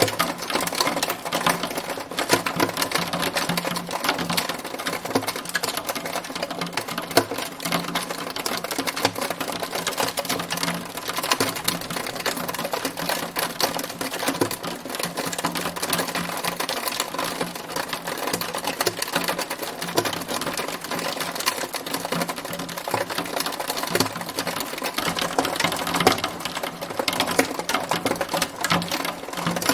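Hailstones striking a hard surface in a dense, steady rattle of countless rapid clicks.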